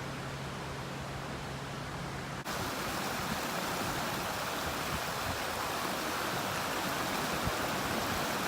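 Steady rush of running water. A cut about two and a half seconds in brings a louder, fuller rush.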